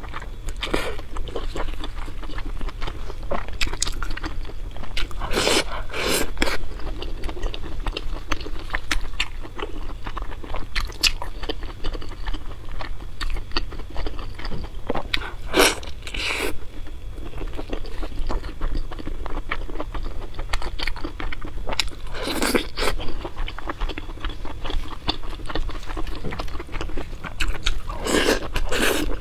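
Close-miked eating sounds: a person chewing and crunching spicy crayfish, with small clicks and cracks as the shells are pulled apart by gloved fingers. A few louder, longer moments stand out among the chewing.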